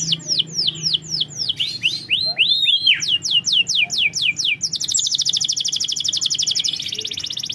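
Domestic canary singing in fast trills. It opens with runs of repeated, quickly falling notes and a few arching notes about two seconds in. From about five seconds in it switches to a very rapid, even trill.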